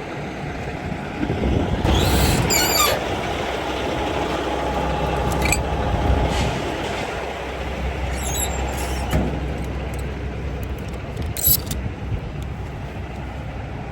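A heavy vehicle's engine running steadily, with a few short squeals and hisses: the loudest about two seconds in, others near the middle and near the end.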